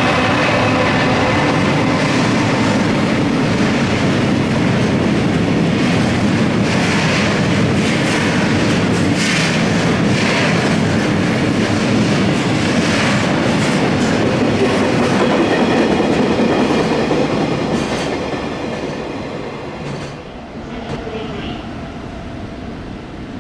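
Freight train of tank wagons hauled by an EF210 electric locomotive passing close by: a loud steady rumble with the wheels clattering over rail joints. It fades about eighteen seconds in, and a quieter, more distant train sound follows.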